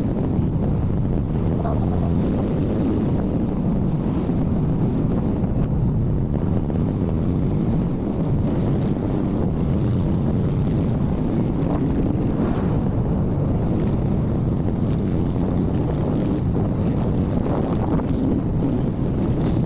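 Motorcycle on the move: a steady drone of engine and road noise, with wind rushing over the microphone.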